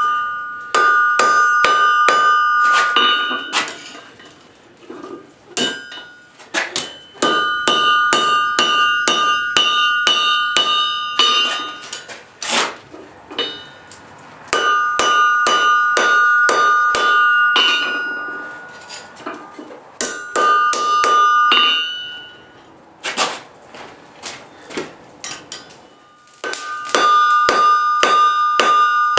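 Forging hammer striking hot coil-spring steel on a ringing anvil, in runs of rapid blows with a clear bell-like ring between them. The runs break off several times into spells of lighter, scattered taps before the steady hammering resumes.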